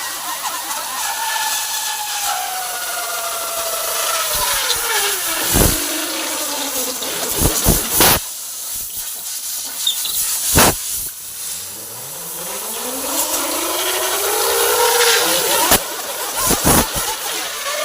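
Compressed air hissing as it is blown through a truck filter, with a whistling tone that slides down in pitch over the first seven seconds and climbs again later as the airflow changes. Several sharp knocks come in between.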